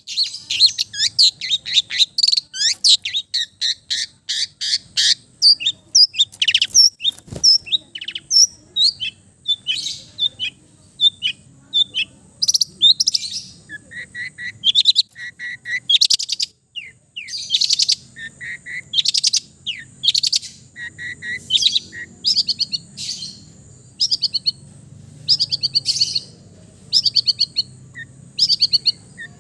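Long-tailed shrike singing a fast, varied run of chirps, trills and whistled notes, full of mimicked calls of other birds; the notes come thick and continuous at first, then in short phrases with brief pauses between them.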